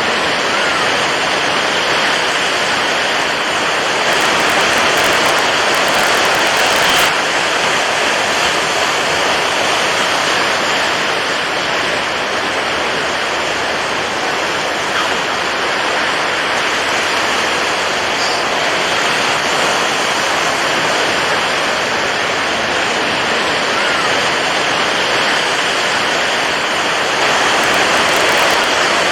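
Water waves washing in a dense, steady rush, swelling slightly a few seconds in and again near the end.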